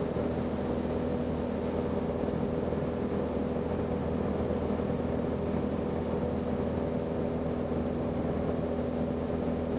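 UL Power engine and propeller of a Zenith CH 750 Cruzer droning steadily in cruise, running smoothly at a low setting of about 2450 rpm, heard inside the cabin. A faint high hiss over it drops away about two seconds in.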